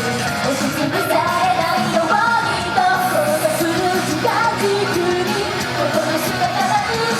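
Idol group singing live over a loud pop-rock backing track.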